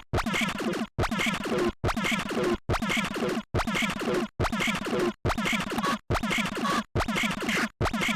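Glitch-style electronic groove at 140 BPM playing in a tight loop of chopped, stuttering glitch samples. The same pattern repeats a little more than once a second, each pass cut off by a brief silent gap.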